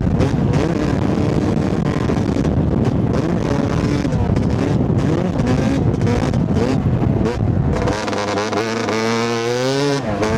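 2008 Yamaha YZ250 two-stroke dirt bike engine at hard throttle, its pitch rising and falling as the throttle is worked. Near the end it climbs steadily in a long pull, then dips briefly.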